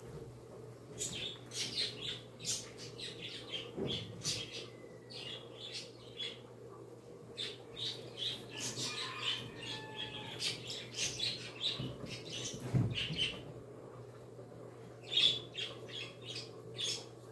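Birds chirping and squawking in quick runs of short, sharp calls with a few brief whistled notes, over a steady low hum.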